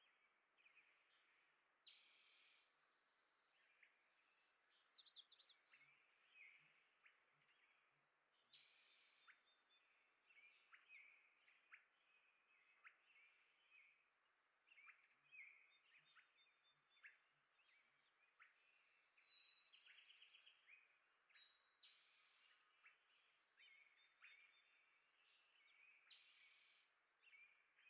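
Faint birds chirping and calling: many short, high chirps and quick down-sweeps, with a few brief trills.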